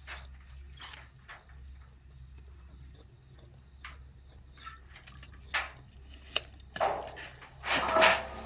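Pigs in a pen: scattered clicks and knocks, then louder grunts and squeals in the last few seconds, over a steady low hum.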